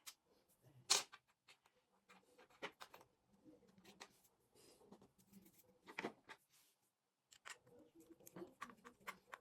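Scattered small clicks and knocks of parts being handled while a Decathlon fishing reel is worked on, with a sharp click about a second in and another about six seconds in.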